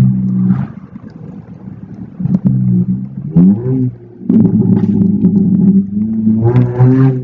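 Straight-piped single-exit exhaust of a 2004 Acura TSX's 2.4-litre four-cylinder, revved: the note falls away about a second in, a quick blip rises and falls a little after three seconds, then it runs loud and steady with another rise near the end.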